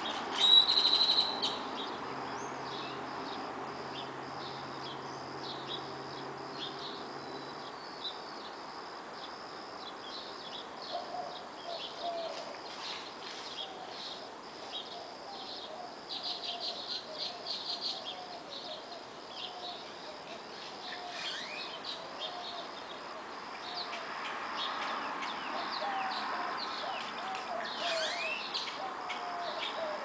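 Early-morning birdsong: many short high chirps and calls, with a bird giving low notes over and over from about ten seconds in, all over a steady high trill of crickets. A loud, brief high-pitched squeal about half a second in is the loudest sound, and a passing vehicle hums faintly and fades out in the first several seconds.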